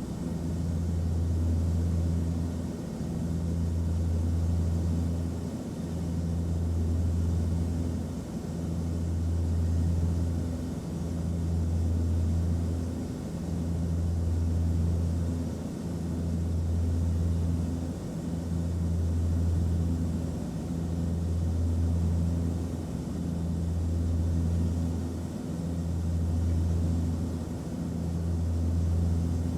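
Airplane cabin noise: a steady low engine drone with a light hiss. Its loudness swells and dips evenly about every two and a half seconds.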